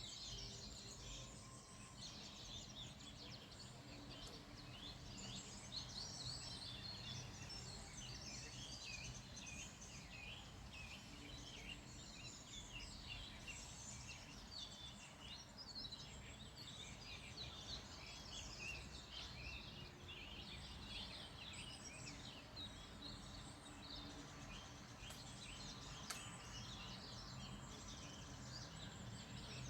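A chorus of wild birds chirping and singing, many short quick notes overlapping continuously. Underneath is a faint steady low hum of background noise.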